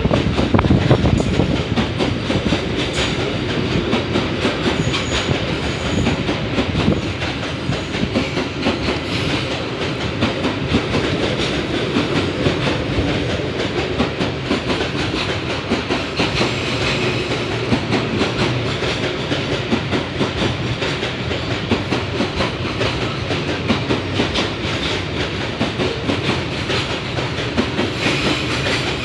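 An empty train rolling past steadily, its wheels clicking over the rail joints.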